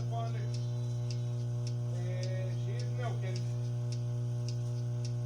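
Goat milking machine running: a steady motor hum with the pulsator clicking regularly, about twice a second. A few brief voice-like sounds come in about two to three seconds in.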